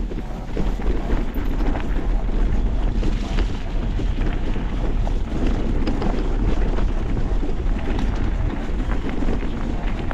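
Off-road motorcycle ridden over rough trail, its engine running under heavy wind buffeting on the microphone, with scattered small knocks and clatter.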